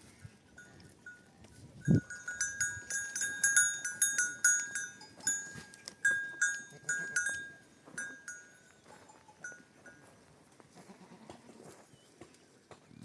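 Metal bells on a flock of goats and sheep clinking irregularly as the animals move, a rapid jangle for several seconds that thins out and stops near the end. A single dull thump sounds about two seconds in.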